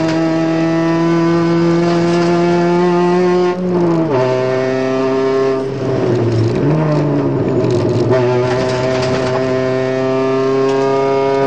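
Ford Focus rally car engine at high revs, heard from inside the cabin. Its pitch drops sharply about four seconds in, dips again around six to seven seconds, then picks up and holds high again.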